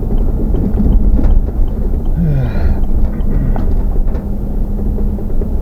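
Wind buffeting the microphone: a loud, uneven low rumble, with a steady engine hum underneath.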